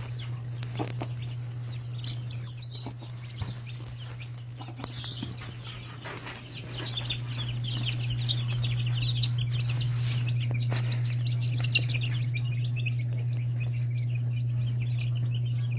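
Game chickens clucking and squawking, with a sharp call about two seconds in and a busy run of short high calls in the middle. A steady low hum sits underneath throughout.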